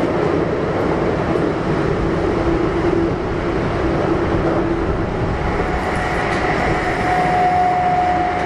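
Kintetsu 1233 series electric train with Hitachi GTO inverter, running at speed between stations: a steady rumble of wheels on rail. A steady hum fades out about five seconds in, and a higher whine comes in near the end.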